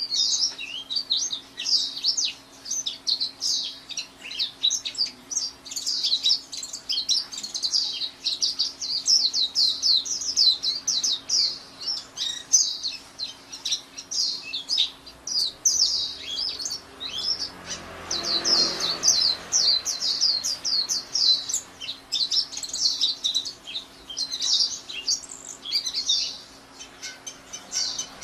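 Pleci (white-eye) singing a fast, unbroken twitter of high, quick chirps.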